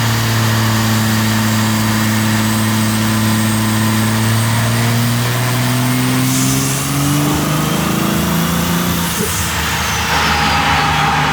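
Cummins diesel in a Ram 2500 running under load on a chassis dyno. Its note holds steady, then climbs in pitch through the second half, and a high turbo whistle rises and then falls away near the end.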